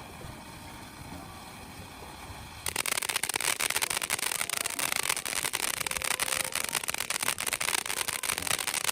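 Freedom Fireworks Live Wire ground fountain burning with a steady hiss. About two and a half seconds in it breaks suddenly into a much louder, dense crackle that keeps going.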